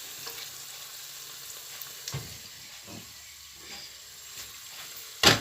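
Onion and celery frying in a pan with a steady, fairly quiet sizzle and a couple of light knocks. Near the end there is a sudden loud burst of noise.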